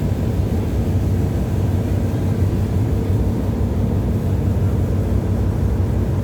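Steady low rumble of a car ferry under way, a constant droning hum with no changes.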